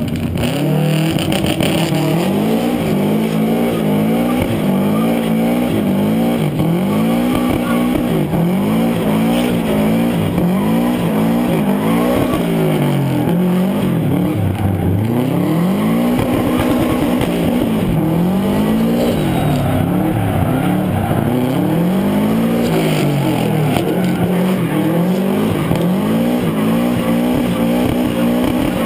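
Subaru WRX STI's turbocharged flat-four engine revving hard, its pitch rising and falling every two to three seconds as the car drifts, with tyres squealing.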